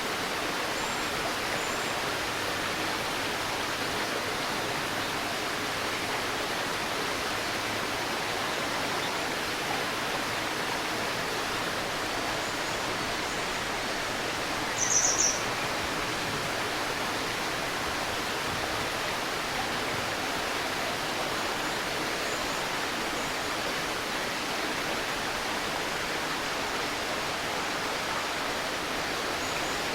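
Steady rushing of a river's babbling current, with a bird giving one short, quick high-pitched call about halfway through and a few faint chirps elsewhere.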